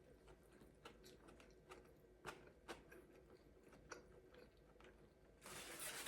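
Faint close-miked chewing of a short rib burrito, with soft scattered mouth clicks. Near the end a louder rustling noise starts.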